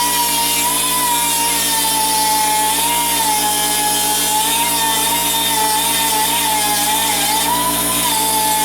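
A power grinder fitted with a grinding stone runs against the steel exhaust flange, smoothing it off. It makes a steady high whine whose pitch wavers slightly, with a gritty hiss above it.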